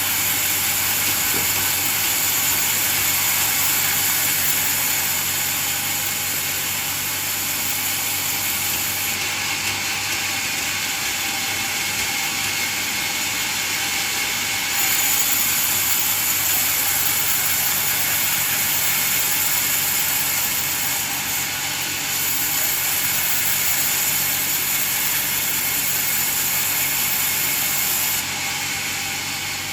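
Band sawmill running while sawing coconut wood: a steady mechanical noise with a high hiss that drops out and comes back several times.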